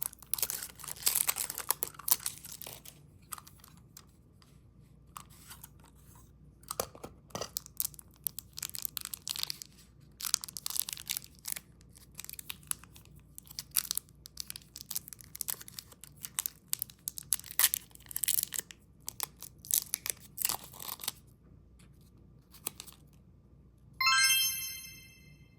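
Candy packaging being unwrapped: plastic wrappers crinkling and tearing in quick irregular crackles, stopping a couple of seconds before the end. Then a short bright chime rings once and fades.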